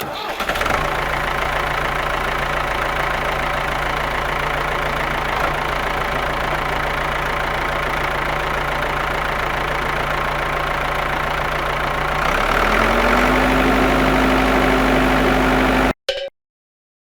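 A small motor running with a steady hum. About twelve seconds in its pitch rises as it speeds up, and about a second before the end it cuts off suddenly.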